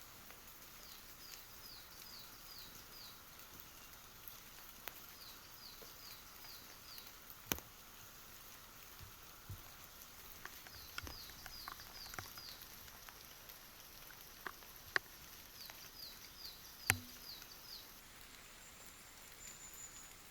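A small songbird repeating a short phrase of five or six quick, high, downward-slurred notes about every five seconds. Scattered sharp taps of dripping raindrops come through, two of them louder, over a faint steady hiss.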